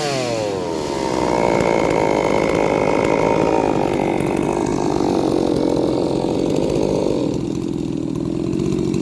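Ported two-stroke chainsaw cutting through wood under load: the engine pitch falls sharply as the chain bites in at the start, then the saw runs lugging in the cut, dropping lower again about seven seconds in.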